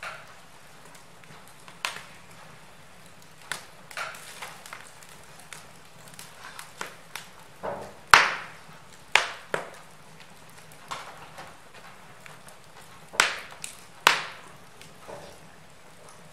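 Wood logs burning in a fireplace, crackling with irregular sharp pops over a faint steady hiss; the loudest pops come about halfway through and again near the end.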